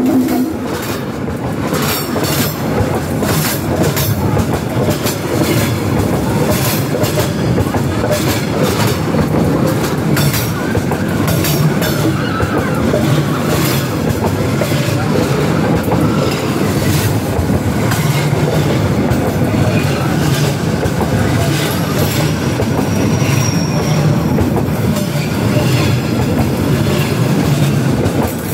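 A train's wagons rolling directly overhead: a loud, steady rumble of steel wheels on the rails, with repeated sharp clacks as the wheels pass.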